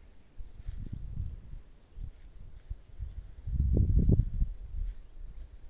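Steady high-pitched insect chirring, cricket-like, with irregular low rumbles on the microphone that are loudest about three and a half to four seconds in.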